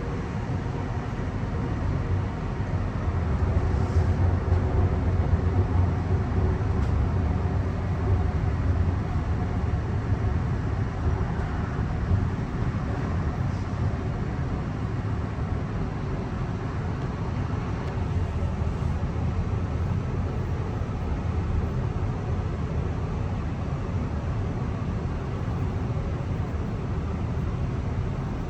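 Interior running noise of a Mariyung (D set) electric train under way: a steady low rumble of wheels on rail, swelling louder for several seconds a few seconds in, with a few faint clicks.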